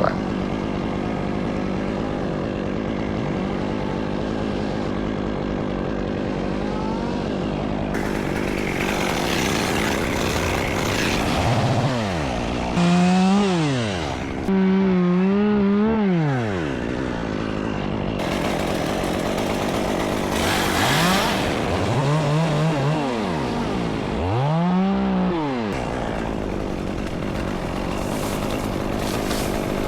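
Gas chainsaw running steadily, revved up and back down several times, each rev rising and falling in pitch over about a second.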